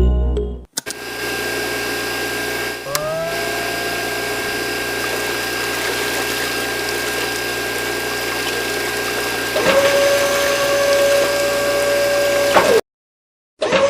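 A small hobby DC-motor water pump running steadily with water moving through it. A whine comes in about three seconds in, rising briefly and then holding steady, and a second steady whine joins near ten seconds. The sound cuts off abruptly near the end.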